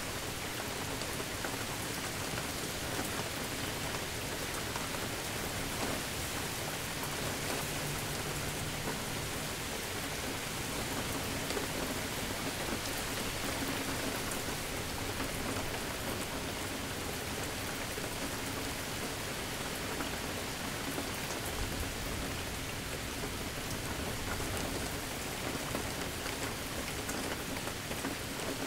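Steady rain falling on surfaces: an even hiss of rainfall with fine individual drops, no clear break in intensity.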